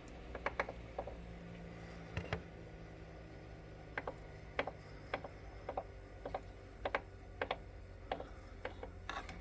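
Concept 2 rowing machine's drive mechanism clicking as the handle is pulled: sharp, irregularly spaced clicks, about one or two a second. The owner has not heard this clicking before and says it goes away when pulling faster.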